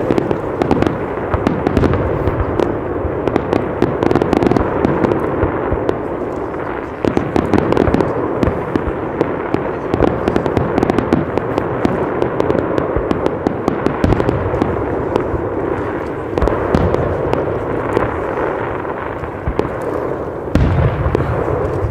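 Fireworks going off without pause: dense crackling with many sharp bangs, and a deeper bang near the end.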